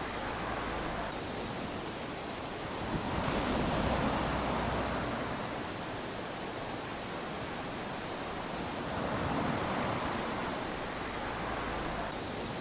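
Small waves lapping onto a sandy shore, with a steady wash of surf that swells gently with each wave, about twice.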